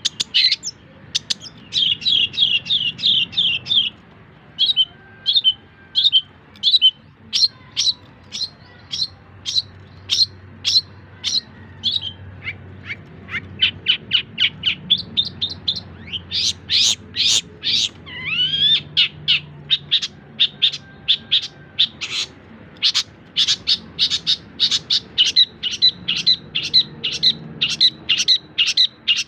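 Long-tailed shrike (cendet) singing: runs of short, sharp chirps repeated rapidly, with a brief rising sweep of notes about two-thirds of the way in.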